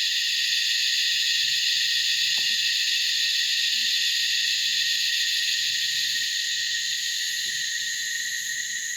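Loud chorus of cicadas: a steady, shrill, unbroken drone that eases off slightly near the end.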